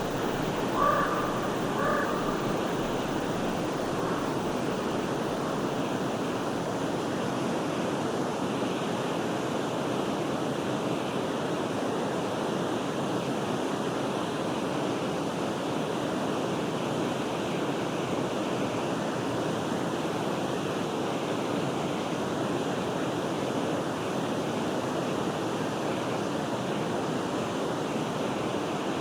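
Forest stream flowing steadily, with a bird calling twice near the start.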